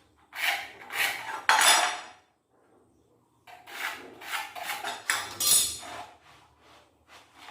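Workshop work on wood: a run of short scraping, rubbing strokes in two bursts with a pause between, then two brief ones near the end.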